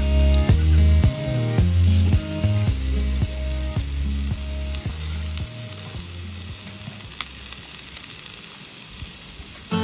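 Yakisoba frying in a frying-pan dish, sizzling steadily with a few sharp clicks and slowly growing quieter. Background music plays over it and fades out about halfway through.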